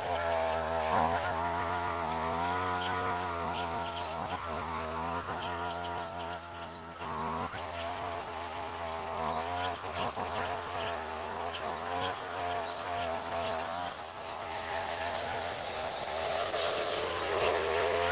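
Small two-stroke petrol brush cutter engine running, a steady buzz whose pitch wavers up and down slightly.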